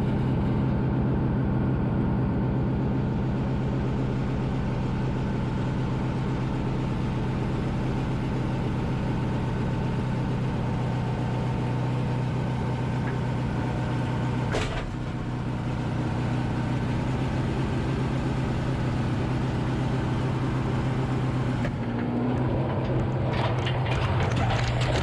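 Skid steer engine running steadily under load, with a single sharp knock about fifteen seconds in and some rattling near the end.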